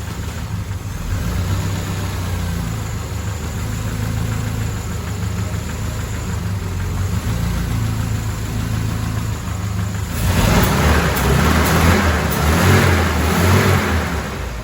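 Mercedes-Benz W124 230E's four-cylinder petrol engine running steadily at idle, then revved harder for a few seconds starting about ten seconds in.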